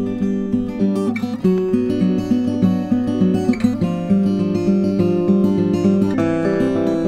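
Acoustic guitar playing a picked and strummed song introduction, before the vocals come in.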